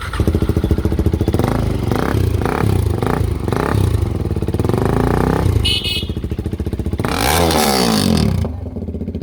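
KTM single-cylinder motorcycle with an aftermarket Akrapovic exhaust, running loud and revving. Near the end the engine note climbs and then drops once.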